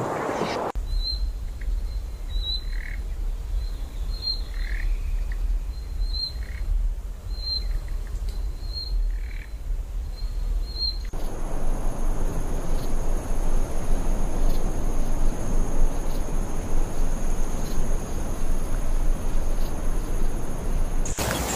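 Short, high bird chirps repeating about once a second over a low rumble. About halfway through they give way to a steady hiss with a thin, high, steady whine above it.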